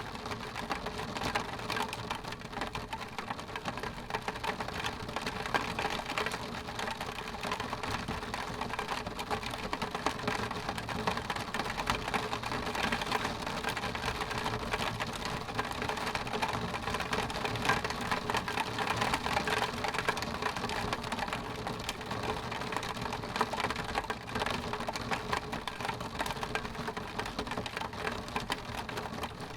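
Rain falling steadily on window glass: a dense, even stream of small drop ticks with no letup.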